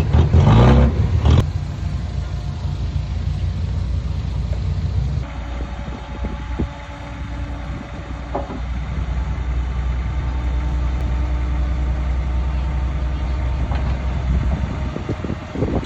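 Heavy diesel earthmoving machinery running with a steady low drone, louder surges in the first second or so, and an abrupt change in the sound about five seconds in.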